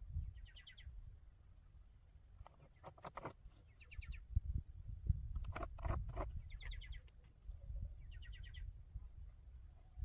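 A bird calling in short trilled chirps, four times, over a low rumble of wind or handling noise.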